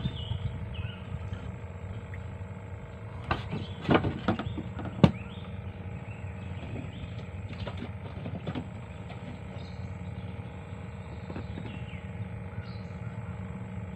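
Small birds chirping on and off in the mangroves over a steady low hum. A few sharp knocks on the boat come about three to five seconds in, as tackle is handled.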